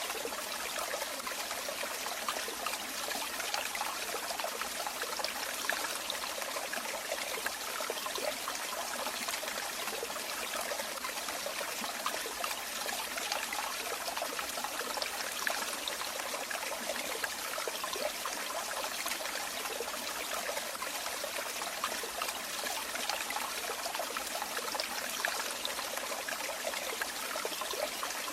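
Running water, a steady trickling and splashing flow.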